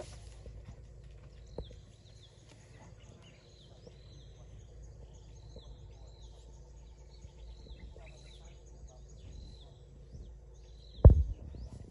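A bird repeating a short, high, falling call about every three quarters of a second, with a single loud low thump near the end.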